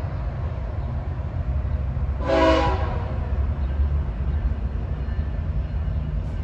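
A train passing with a steady low rumble, its horn sounding one short blast about two seconds in.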